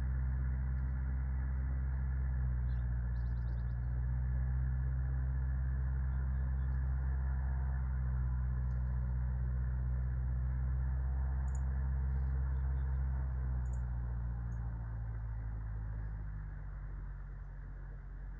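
A steady low motor hum, such as an engine running, which eases off toward the end. A few faint, short, high bird chirps come through in the middle.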